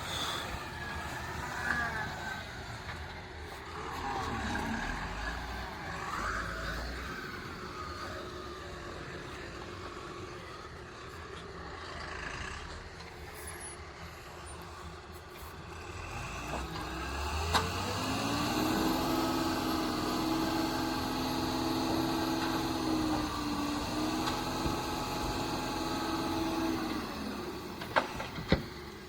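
Heavy diesel engine of earthmoving machinery working: about halfway through it revs up, holds at high revs for several seconds, then drops back. A few sharp clicks or knocks come near the end.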